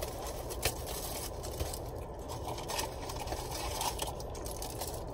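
Soft eating sounds, small scattered clicks and rustles of chewing, over a steady low hum in a car's cabin.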